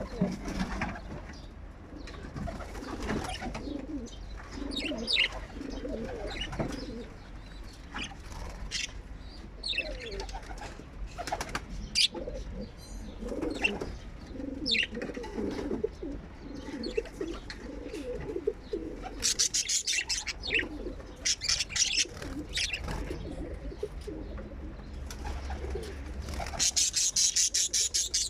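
Birds making low cooing calls throughout, with short chirps now and then. Two bursts of rapid wing flapping come about two-thirds of the way through and near the end.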